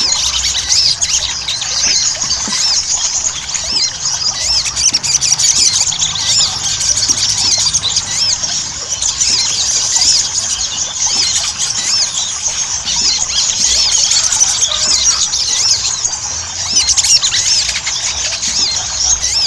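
A ruby-cheeked sunbird (sogok ontong) in full, nonstop song. It gives an unbroken stream of rapid, high-pitched chirps and twitters.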